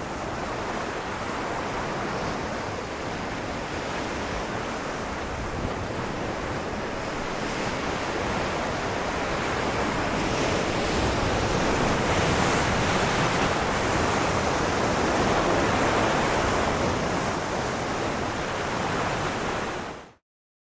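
Ocean waves washing onto rocks, a continuous surf roar that swells slowly, peaks past the middle, then cuts off suddenly near the end.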